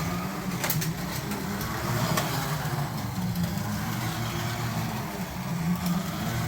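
Carrera Digital 132 slot cars running on the track, their small electric motors humming and wavering in pitch as the throttle changes, with a few sharp clicks.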